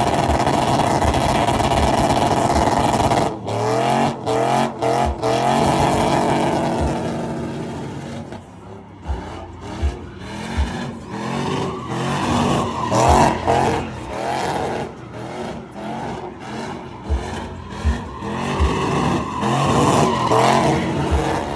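Truck engine revving hard with tyre squeal during a burnout. About three and a half seconds in the revs cut in and out rapidly; the sound then falls away and comes back in repeated rev surges with sharp pops.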